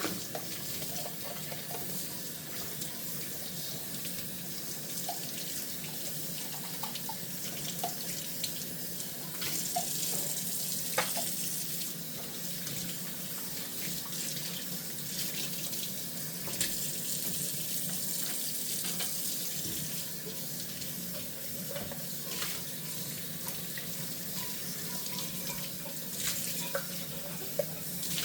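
Kitchen faucet running into a sink during hand dishwashing, a steady rush of water with scattered light clinks and knocks of dishes, the sharpest about eleven seconds in.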